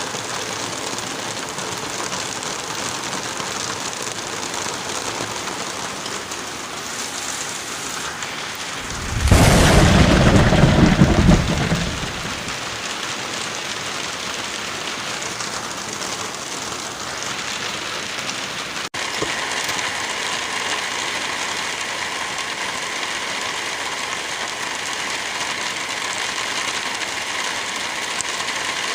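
Steady wind through forest trees with light rain falling. About nine seconds in, a loud, deep rumble rises suddenly and lasts about three seconds. About two-thirds of the way through, the hiss changes abruptly to a slightly louder, brighter sound.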